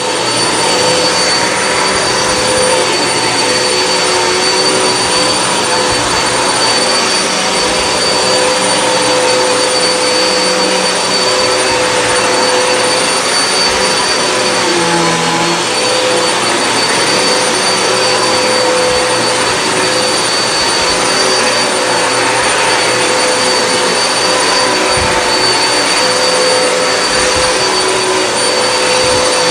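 Hoover WindTunnel High Capacity upright vacuum cleaner running steadily on carpet, its motor giving an even whine. The pitch dips briefly about halfway through.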